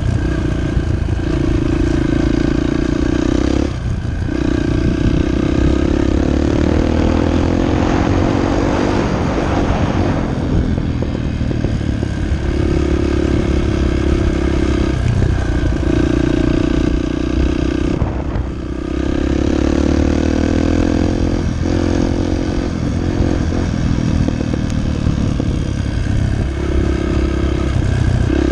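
Dirt bike engine running under throttle, its pitch rising and falling as it is revved and shifted. The throttle drops off briefly about four seconds in and again about eighteen seconds in.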